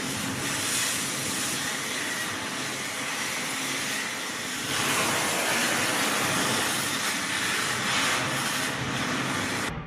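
Cutting torch hissing steadily as it melts through a bolt head holding an excavator track roller. It gets a little louder about halfway and cuts off just before the end.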